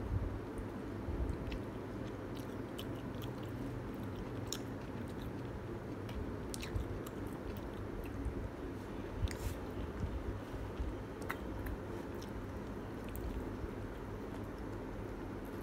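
A person biting and chewing a spicy chicken drumlet close to the microphone, with small sharp clicks and crunches scattered throughout, over a steady low hum.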